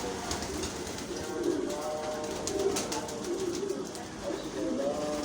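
Pigeons cooing: a run of low, warbling coos repeated every second or so.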